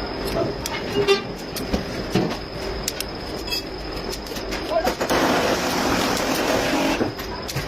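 Volvo D13 diesel truck engine running, with irregular sharp knocks over a rumbling base. A louder hissing rush sets in about five seconds in and lasts some two seconds.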